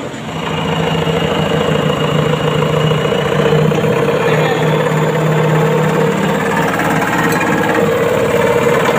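An engine running steadily, with a steady hum that swells over the first second and then holds.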